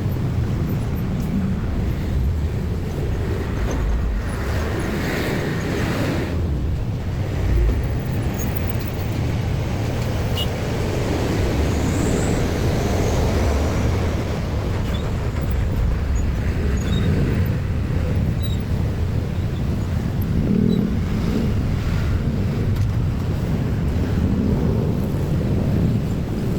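Road traffic at a railway level crossing: vehicle engines and tyres making a steady low rumble.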